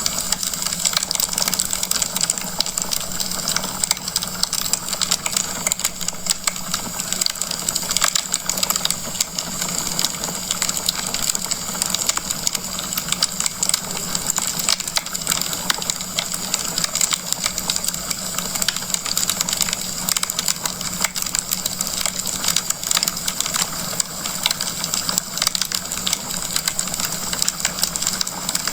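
Wood fire crackling in a fireplace: a dense, steady stream of small pops and snaps over a hiss.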